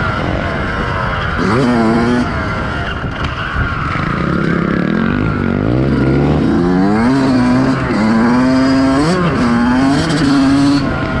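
Motocross bike engine being ridden hard. The revs climb and drop repeatedly as the throttle is worked and gears are changed.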